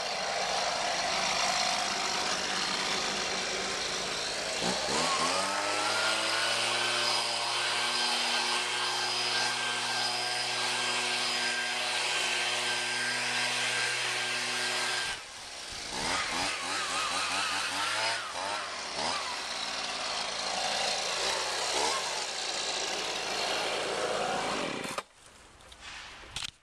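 Brand-new Husqvarna 125B handheld leaf blower's two-stroke engine running, revving up to full throttle about four seconds in and holding there for about ten seconds, then dropping back and revving in short blips before falling away near the end.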